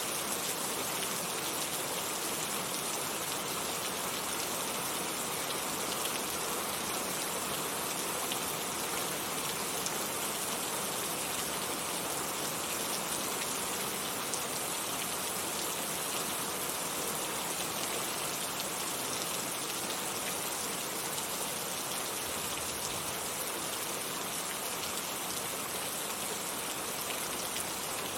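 Heavy rain falling steadily, a dense even hiss of drops hitting surfaces with no single loud event.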